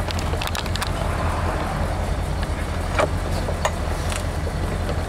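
1971 Cadillac Eldorado's 500 cubic-inch V8 idling steadily, with a few scattered clicks and knocks as the convertible top's latches are fastened by hand.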